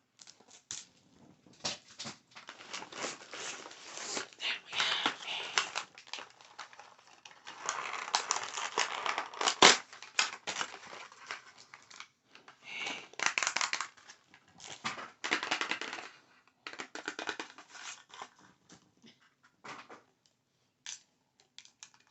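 Paper or plastic wrapping crinkled and rustled in bursts of a few seconds, with scattered clicks and one sharp click about ten seconds in.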